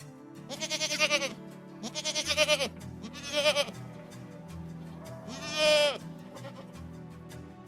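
An animal bleating: four short, wavering calls, over background music with steady low notes.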